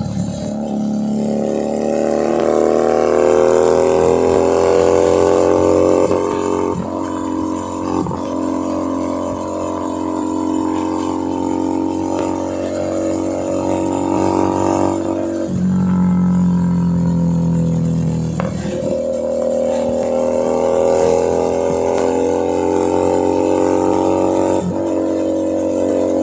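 Keeway SCR 250V motorcycle engine and exhaust under way, pulling through the gears: the pitch climbs steadily, then drops at each gear change, about four or five times.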